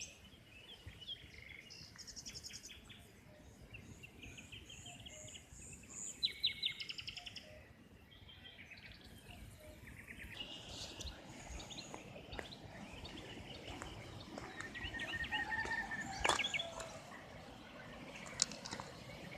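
Small birds calling outdoors: repeated short chirps and quick trills from several birds. About ten seconds in, a steady background noise rises beneath the calls.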